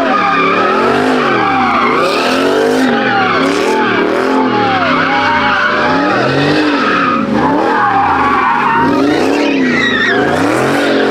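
A car sliding in donuts with heavy tire squeal, its engine revving up and down over and over, about once a second.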